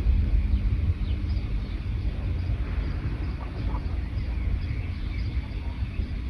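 Several small songbirds chirping faintly and sporadically over a steady low rumble, which is the loudest sound.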